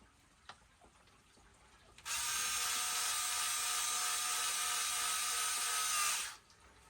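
Small cordless power screwdriver running steadily for about four seconds, then stopping abruptly.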